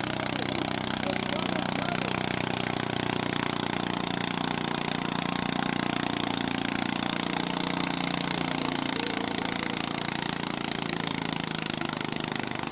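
Garden tractor engine running steadily, its pitch rising a little about a second in and settling back down around nine seconds in.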